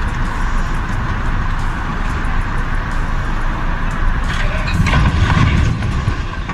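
Heavy vehicle engine running with a steady rumble, and a louder rattling, clattering passage about four and a half seconds in.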